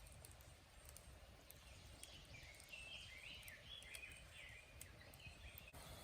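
A bird chirping faintly in a quick run of short, sliding notes from about two seconds in, over quiet outdoor background noise.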